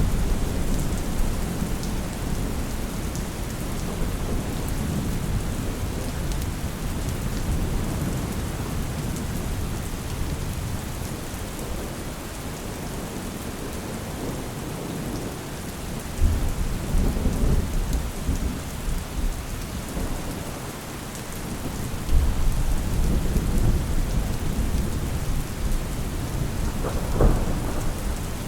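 Steady rain falling, with rolls of distant thunder: low rumbles swell up about halfway through and again later, and a sharper crack comes near the end.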